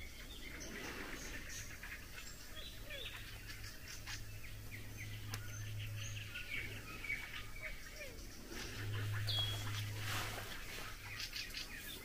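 Several songbirds singing, many short high chirps and calls overlapping. A low steady hum underneath swells twice, about four and about nine seconds in.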